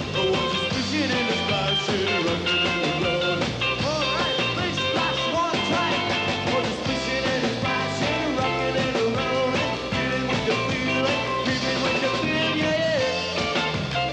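Live rock and roll band playing an instrumental stretch without vocals, with a steady beat and a melody line bending up and down over the band.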